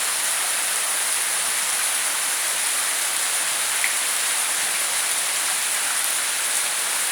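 Heavy tropical downpour: a steady, even hiss of hard rain falling, with no let-up.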